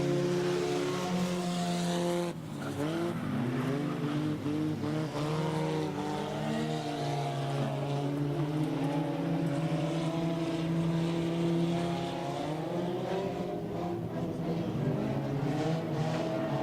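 Several junkyard race cars' engines running at racing speed, their pitches rising and falling against one another as the cars lap, with a brief dip in level about two seconds in.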